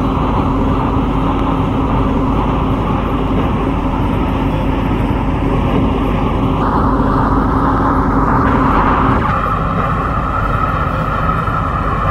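MTR C-Train metro train running between stations, heard from on board: a steady rumble of wheels on rail with a motor hum. The tone of the noise shifts about six and a half seconds in and again about nine seconds in.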